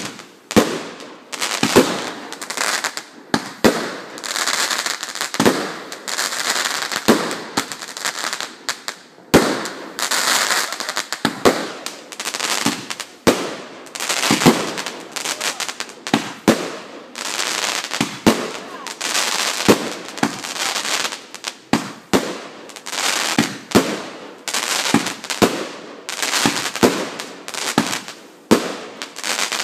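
Aerial fireworks bursting in a rapid, continuous run of sharp bangs, about one to two a second, with stretches of hissing crackle between them.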